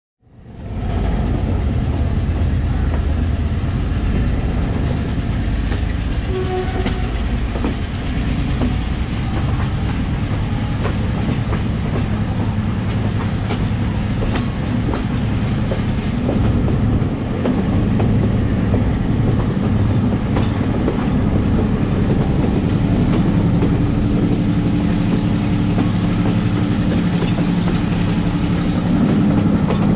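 Passenger train running along the track, heard from beside a carriage: a steady rumble of wheels on rail with frequent clicks of the wheels over rail joints. A low steady hum grows louder over the last several seconds.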